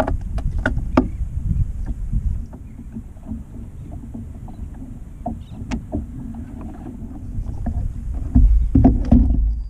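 Sounds of a fishing kayak on the sea: a steady low rumble of water and wind on the microphone, with scattered sharp knocks and clicks against the kayak and its gear. The rumble gets louder about 8 seconds in.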